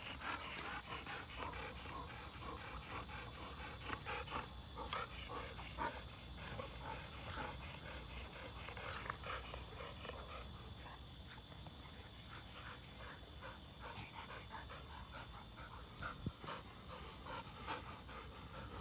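A dog panting in quick, rapid breaths, over a steady high hiss.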